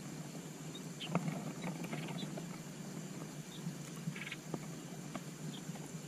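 Adult bird and nestlings at the nest during a feeding: a few brief high chirps and a short rapid twitter about four seconds in, with scattered soft clicks and rustles of the birds moving in the nest, over a steady low hum and hiss.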